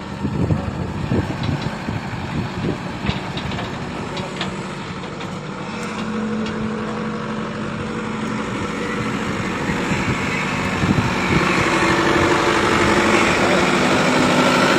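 A large engine running steadily, getting louder over the last few seconds, with people's voices around it.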